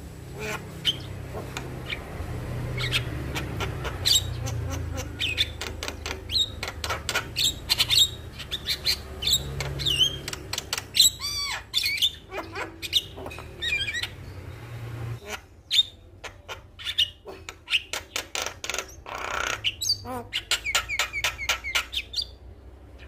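Male Javan myna (jalak kebo) singing: fast runs of harsh clicking chatter mixed with whistled, gliding notes.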